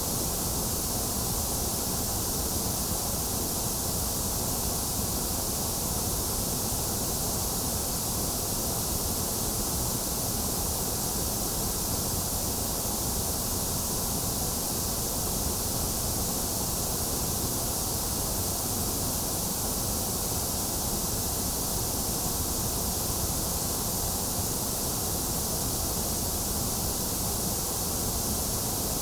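Generated white noise playing as a steady, unchanging hiss.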